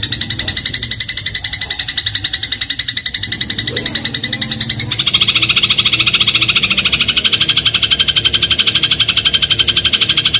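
Eurasian tree sparrow giving a loud, unbroken rapid trill of chirps, about ten a second. About five seconds in the trill shifts to a lower pitch and carries on.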